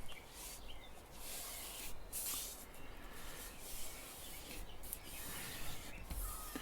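A square of kami origami paper rustling and swishing as it is handled, folded along the diagonal and creased flat, in uneven strokes.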